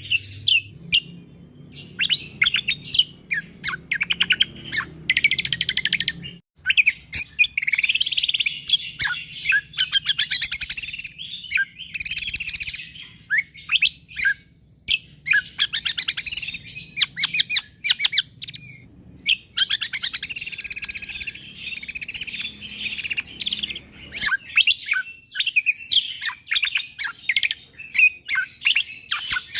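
Cucak kombo (kecial kombo) singing in an in-form run of tightly packed, rapid chirps and trills, the dense 'tembakan' bursts that bird keepers call 'gacor'. The notes come in quick strings with only brief pauses between phrases.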